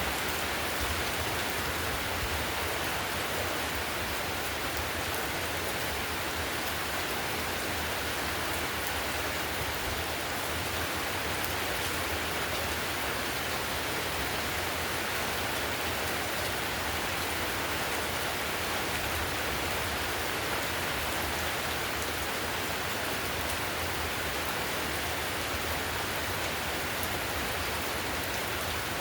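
Heavy rain falling steadily on a house's tiled roof, an even rushing hiss dotted with the ticks of single drops.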